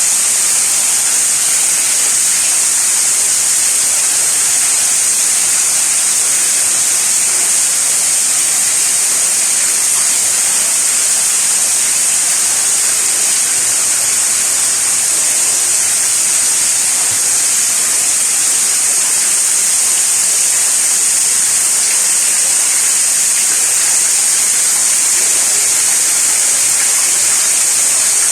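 Steady rain falling: a continuous loud hiss with a strong high-pitched edge that stays unchanged throughout.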